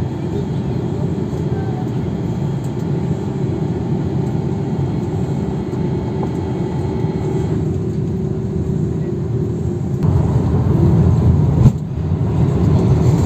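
Steady engine and airflow noise inside a jet airliner's cabin, deep and even, with a faint steady hum. About ten seconds in it grows louder and deeper, with a brief click and dip just before the end.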